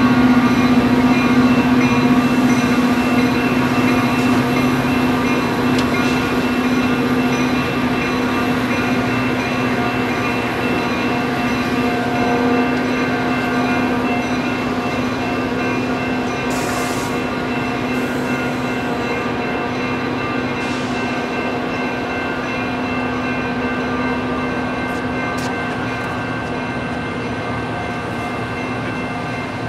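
Diesel-hauled bilevel passenger train pulling away. Its steady engine drone slowly fades as it recedes.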